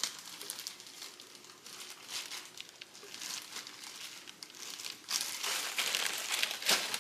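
Plastic packaging being handled and crinkled: a dense run of crackles that grows louder for the last couple of seconds, then stops abruptly.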